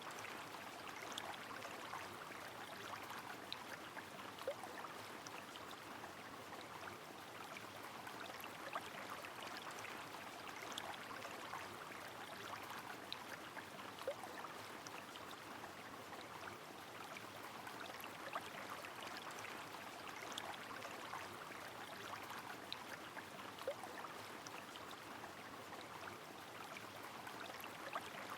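A river flowing steadily with rain falling, scattered drip ticks sounding over the constant rush of water.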